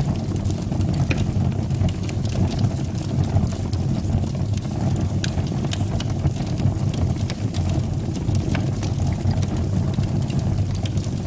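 Fire burning in a fireplace: a steady low rumble of the flames with scattered sharp crackles and pops.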